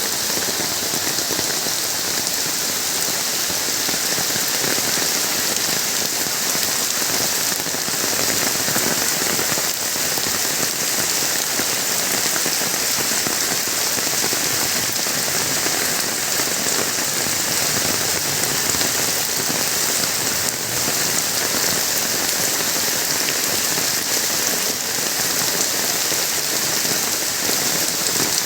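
Steady rain falling, a dense even hiss that keeps up without a break.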